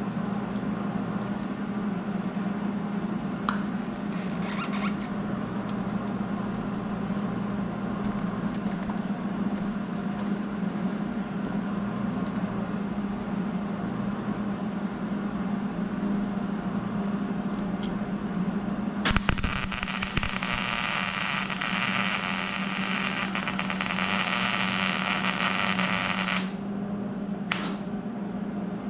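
An electric welding arc crackles for about seven seconds starting about two-thirds of the way in, welding a nut onto a broken exhaust manifold stud so the stud can be turned out. A steady low hum runs underneath.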